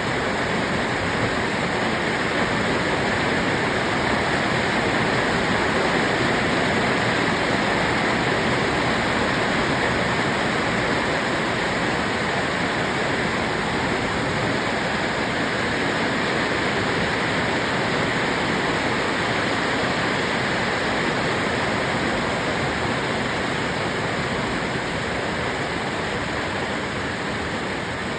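Hailstorm: hail and rain coming down hard and steadily as a dense, unbroken hiss, easing slightly near the end.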